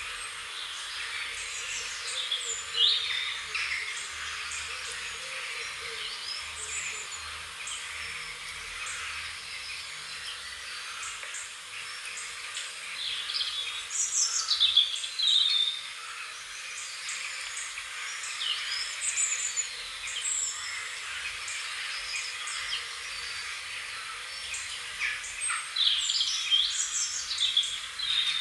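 Several wild songbirds chirping and singing over a steady background hiss, with louder bursts of song about halfway through and again near the end.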